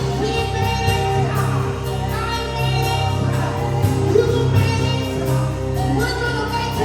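Live gospel worship music: voices singing over sustained instrumental accompaniment.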